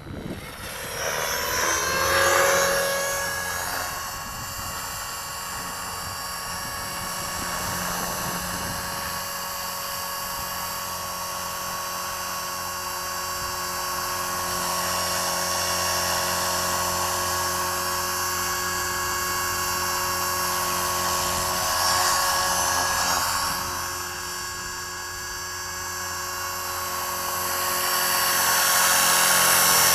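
Tarot 450 electric RC helicopter rising in pitch and level over the first two seconds, then holding a steady high whine from its motor, gears and rotor. It swells louder a few times as it comes closer.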